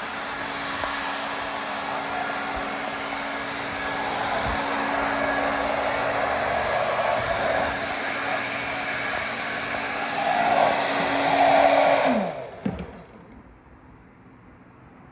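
Small electric fan motor running with a steady airy hum, louder just before it is switched off about twelve seconds in; its tone falls as it spins down, followed by a click, leaving a faint hum.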